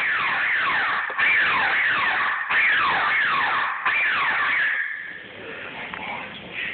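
Laser tag blaster firing in rapid-fire mode: electronic 'pew' shots, each a quick falling whistle, repeated in four bursts. The firing stops about five seconds in.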